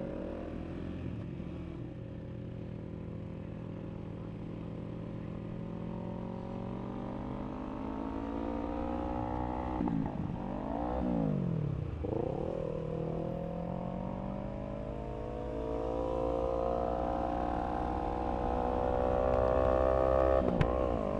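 2022 KTM RC390's single-cylinder engine under way, its note climbing steadily as it pulls. About halfway through the pitch drops and climbs quickly a few times, then it rises again and swoops once more near the end, over low wind rumble.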